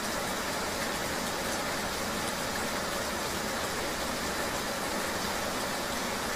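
Steady ambience of rain and a road vehicle: an even wash of noise with no separate events.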